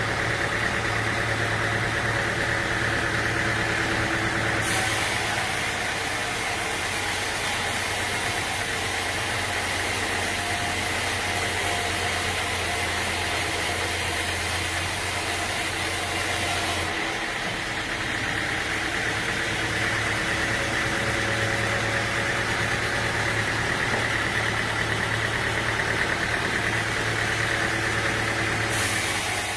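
A sawmill's engine running steadily, a continuous machine hum with a high hiss that jumps abruptly in level a few times.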